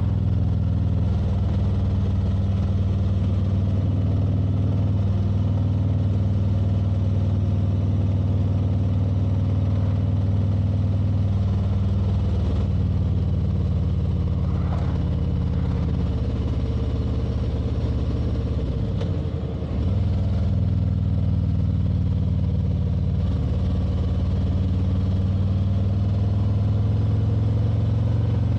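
Motorcycle engine running at a steady cruise, with road and wind noise. About two-thirds of the way through, the engine note falls and briefly dips in loudness, then steadies again.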